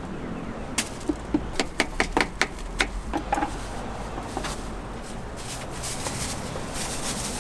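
A quick run of about nine sharp, light clicks or taps over two seconds, then a soft steady hiss.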